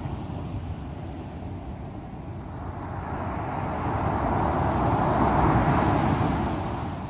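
Sea waves surging and breaking on the shore, one wave swelling up over a few seconds, peaking about two-thirds of the way through, then dying back into the steady surf rumble.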